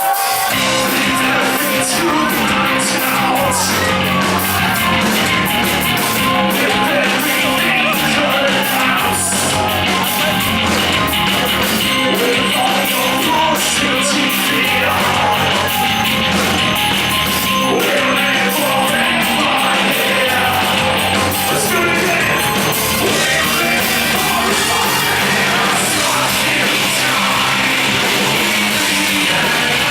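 Live heavy-metal band playing loud, with shouted and sung vocals over the music and a steady beat; the music starts suddenly at the beginning.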